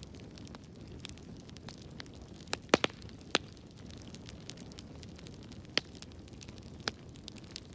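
Wood fire burning in a fireplace: a steady low rumble with scattered crackles and sharp pops, a quick cluster of loud pops about a third of the way in and two more single pops later.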